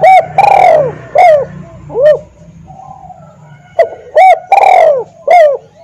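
Spotted dove (tekukur) cooing loudly, a decoy call bird: two phrases of arched coos, each a few short notes around one longer drawn-out coo.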